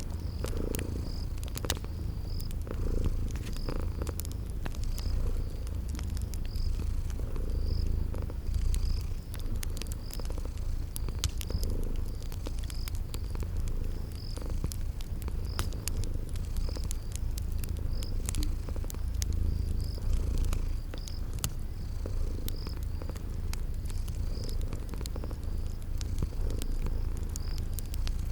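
Cat purring steadily, with a crackling fire's scattered sharp pops and a cricket chirping about once a second.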